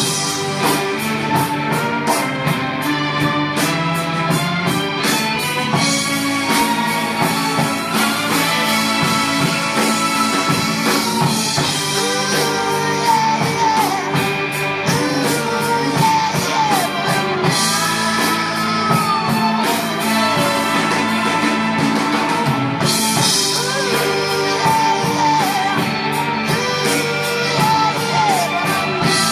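Rock song with a singing voice, drums and guitar, played back through a Bose SoundLink portable speaker.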